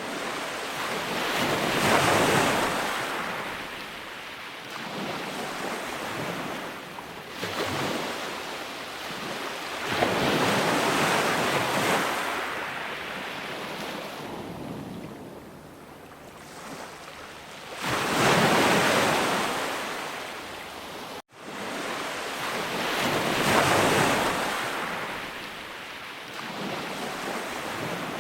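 Ocean waves breaking and washing in, each surge swelling and ebbing every six to eight seconds. The sound drops out for an instant about three quarters of the way through.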